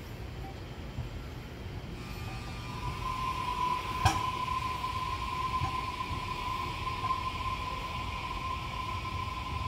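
ITX-Cheongchun electric train running slowly along the station tracks with a low rumble. A steady high whine comes in about three seconds in and holds, with one sharp click about four seconds in.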